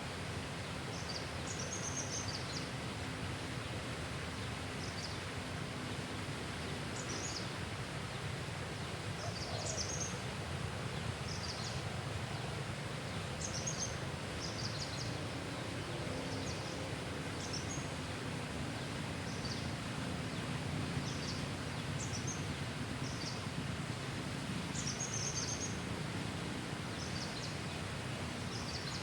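Birds chirping in short, high calls every second or two over a steady low background rumble.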